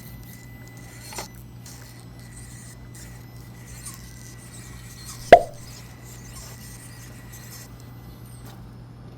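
A single sharp knock about five seconds in, with a lighter tap about a second in, over a faint steady hum.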